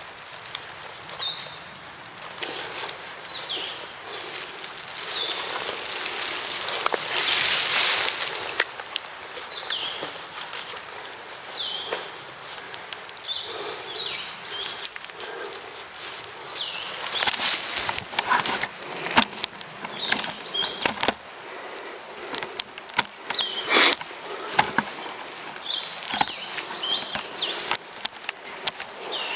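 A freshly shot wild turkey flopping on the forest floor, its wings beating and scraping through dry leaves in irregular flurries, coming thicker and sharper in the second half: the death throes of a downed gobbler.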